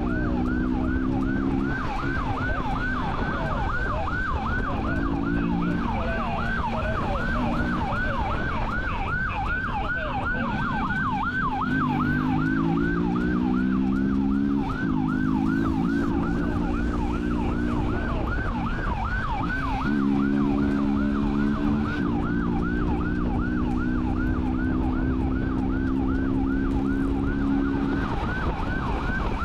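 Police siren in a rapid yelp. Under it, a motorcycle engine runs hard, its pitch climbing and then dropping in steps as it shifts gears, over a steady rush of wind and road noise.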